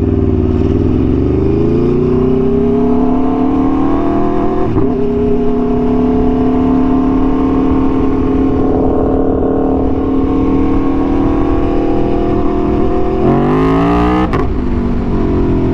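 Aprilia Tuono V4 1100's V4 engine through an SC-Project exhaust, under way. The revs climb in the first few seconds and then hold a steady note. Near the end they rise quickly and break off at a gear change.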